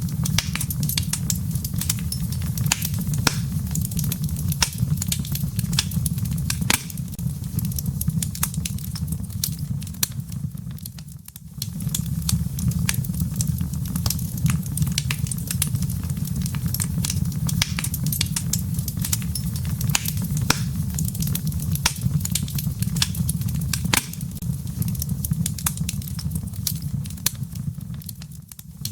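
Wood fire burning in a fireplace: a steady low rumble of flames with frequent sharp crackles and pops from the logs. The sound briefly fades and returns about eleven seconds in, and again near the end.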